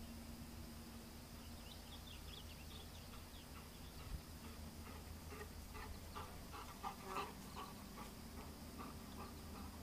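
Faint bird calls: a run of high chirps, then a series of short, louder calls a few times a second.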